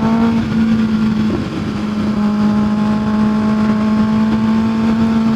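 Kawasaki ZX-6R 636 sport bike's inline-four engine running at a steady cruising speed, its pitch holding level, with wind rushing over the rider's microphone.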